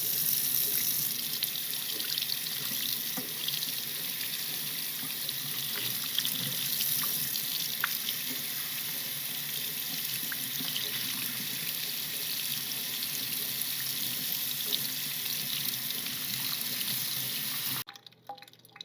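Water running steadily from a tap, rinsing the dirt off caladium bulbs; the tap shuts off suddenly near the end.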